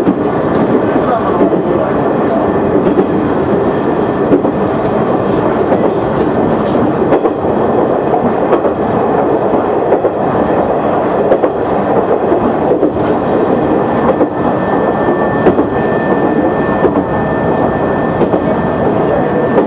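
KiHa 100 diesel railcar running at speed, heard from on board: its engine and wheels make a steady rumble, with wheel clicks over rail joints. A faint steady high whine comes in during the last few seconds.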